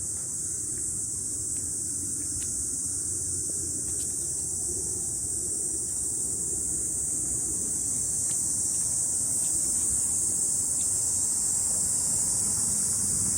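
Cicada chorus, a steady high-pitched buzz that grows slightly louder toward the end, over a low steady rumble.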